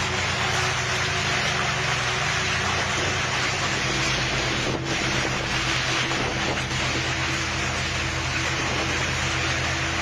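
Storm wind and rain making a loud, steady rushing noise, with a low droning hum underneath.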